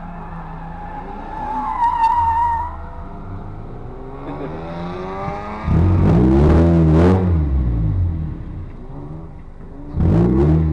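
Autocross cars running a cone course: engine noise with a brief tire squeal about two seconds in, then a car accelerating loudly past about six seconds in, its engine note rising and falling, and another loud engine starting near the end.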